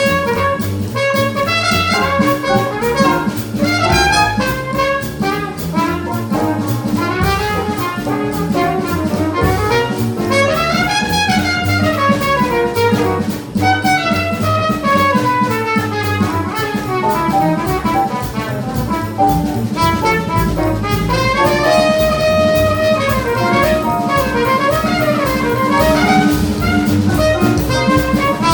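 Live small jazz band playing bebop: fast, winding horn lines from alto saxophone and trumpet over bass and drum kit.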